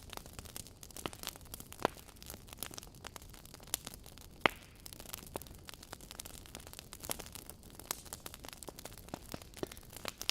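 Wood fire crackling: irregular sharp pops and snaps over a low hiss, with a louder pop about four and a half seconds in.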